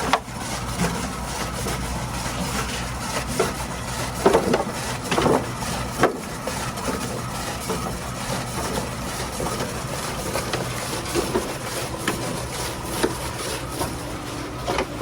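Radish-slicing food machine running: a steady motor hum under irregular clattering, with a few louder knocks between about four and six seconds in.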